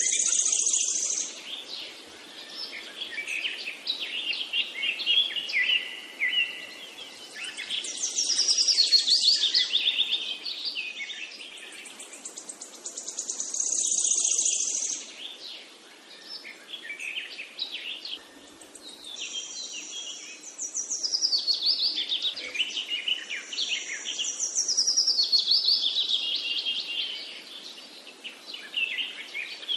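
Songbird singing: a run of high chirps, rapid trills and warbling phrases that swell and ease every few seconds.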